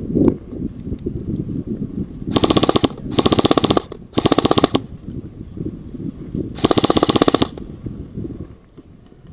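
Airsoft gun firing on full auto in four short bursts, rapid even clicking shots, the last burst about seven seconds in. Low rustling of movement runs underneath.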